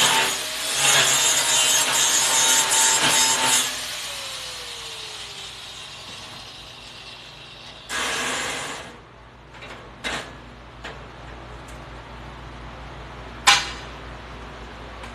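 A power tool working metal, loud and rough, for the first few seconds with a brief break near the start, then its motor winding down in a falling tone. Later there is a short second burst, and near the end a single sharp knock.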